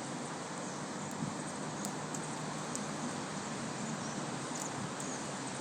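Steady rain falling, an even hiss, with a few faint high chirps and ticks over it.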